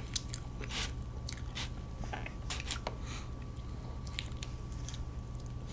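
Close-miked eating sounds: soft chewing and mouth sounds, with faint scattered clicks and scrapes of a metal fork cutting into a cream cake that is still partly frozen.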